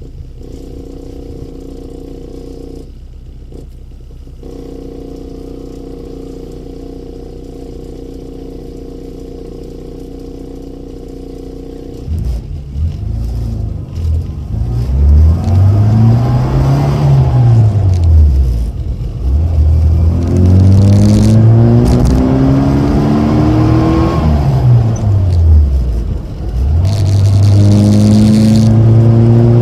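Rover Mini's small four-cylinder engine with an aftermarket Rookie muffler, idling steadily. About twelve seconds in it pulls away: the exhaust note gets louder and the revs rise and fall twice, then climb again and hold near the end.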